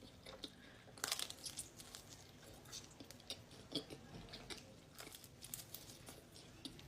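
Pizza being bitten and chewed close to the microphone: crisp crunches and wet mouth clicks, with a louder crunchy bite about a second in.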